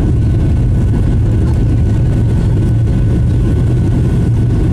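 Boeing 737-800's CFM56-7B jet engines, a steady low rumble heard from inside the passenger cabin.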